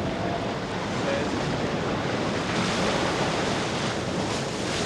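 Stormy sea and wind: a steady, dense rush of breaking waves and gusting wind.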